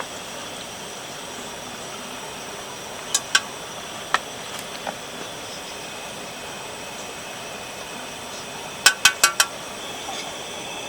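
Camp gear clinking and tapping: a few single sharp clinks, then four in quick succession near the end, over a steady background hiss.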